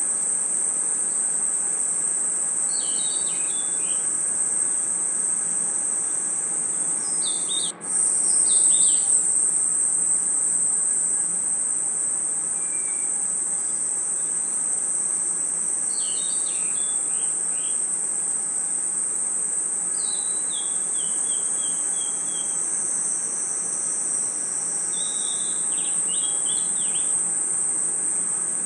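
Night chorus of crickets and other insects: a steady high trill, with short chirping calls breaking in every few seconds. There is a brief dropout about eight seconds in, after which the chorus comes back slightly louder.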